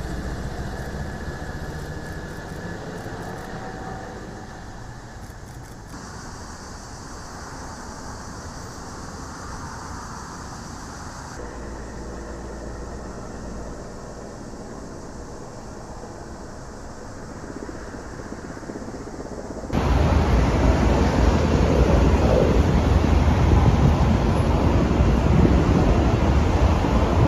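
Steady engine noise across several spliced shots, changing abruptly about 6, 11 and 20 seconds in; the last shot is much louder.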